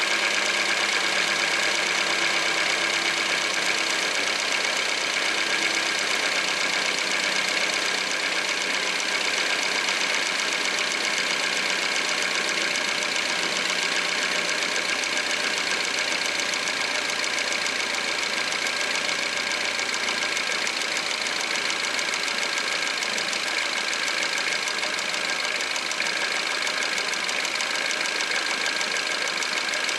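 Peugeot 408's 150 hp engine idling cold: a steady run with a fast, fine ticking rattle, which the owner suspects may be the timing chain. A low hum underneath fades out about halfway through.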